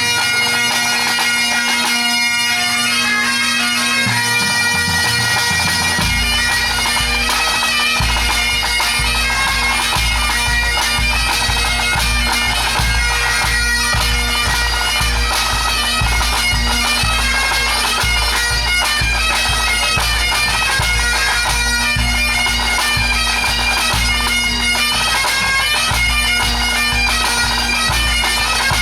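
Pipe band playing a medley: massed Great Highland bagpipes with their steady drones under the chanter melody. About six seconds in, a steady low drumbeat joins underneath.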